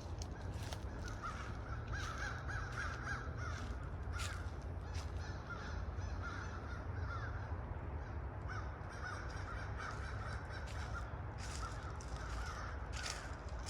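A flock of birds calling overhead, a dense run of short repeated calls, over a steady low rumble.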